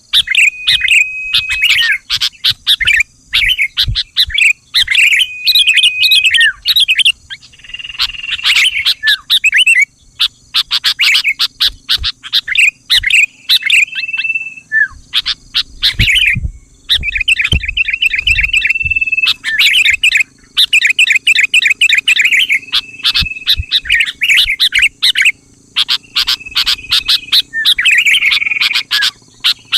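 Sooty-headed bulbul calling: phrases of fast chattering notes, several ending in a short held whistle, repeated one after another with brief gaps.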